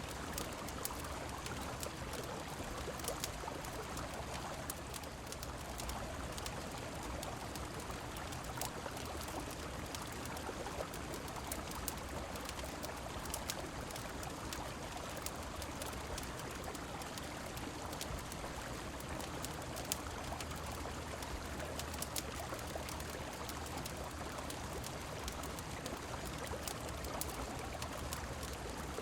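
Steady rushing of river water mixed with rain, with frequent sharp, irregular crackles from a wood fire.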